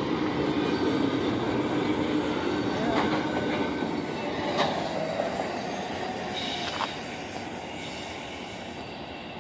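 Freight train cars rolling past on the rails: a steady rumble with a few sharp clicks from the wheels and a faint wheel squeal, slowly fading as the train moves away.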